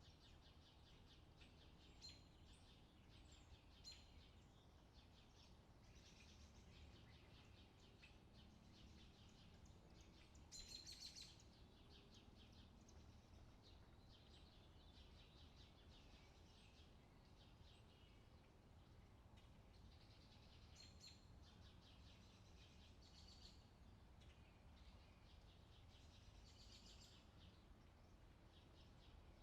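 Faint forest birdsong: many small birds chirping and trilling in short bursts, with one louder trill about ten seconds in, over a low steady background rumble.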